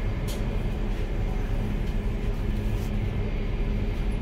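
Steady rumble and low hum of a train heard from inside the passenger carriage, with a light click shortly after the start.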